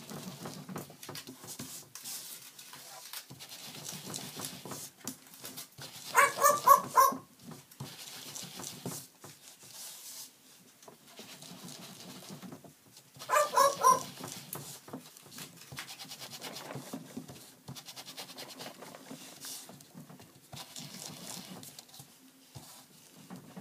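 Pet bird mimicking a dog's bark: two short runs of quick barks, about six seconds in and again about thirteen seconds in.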